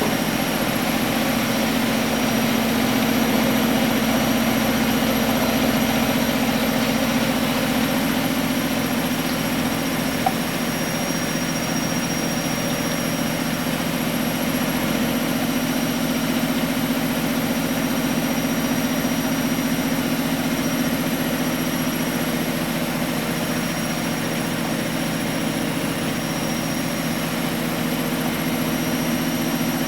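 A 1993 Miele Professional WS 5426 washing machine spinning at high speed: a steady motor hum with a thin high-pitched whine over it.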